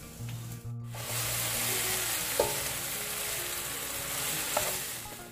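Food sizzling in hot oil in a pan, a steady dense hiss that starts abruptly about a second in, with two sharp taps, one about halfway and one near the end.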